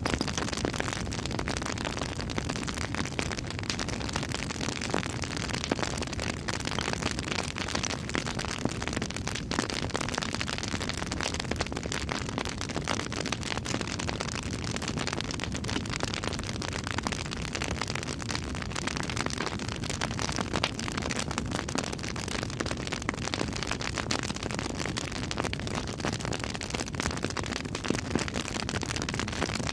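Campfire crackling steadily: a dense run of small pops and snaps over a soft hiss.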